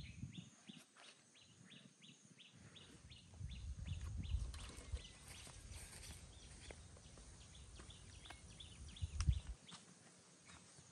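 A bird chirping over and over, about three short, high chirps a second, fading out near the end, with a low rumble twice in the middle.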